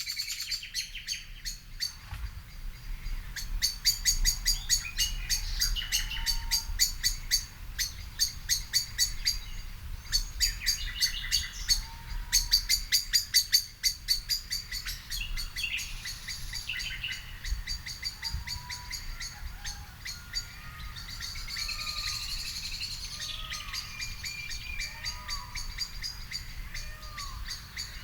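Garden songbirds singing and chirping, with fast runs of high repeated notes throughout. In the last third a lower, short swooping note repeats about once a second. A low background rumble sits beneath.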